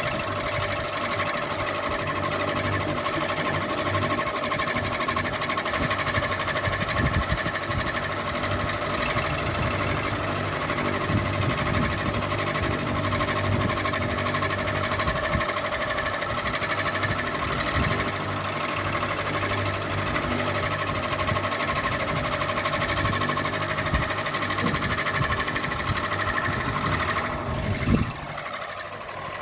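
Ceiling fan running, with a steady motor hum and a rough, rhythmic mechanical rattle. Near the end there is a short jolt, after which it runs a little quieter.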